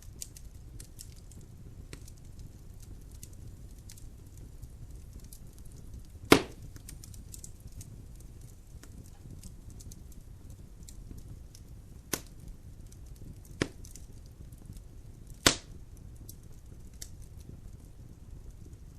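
Wood logs burning in a fireplace: a steady low rumble of flame with frequent small crackling ticks. Four sharp pops from the logs stand out, the loudest a third of the way in and another late on.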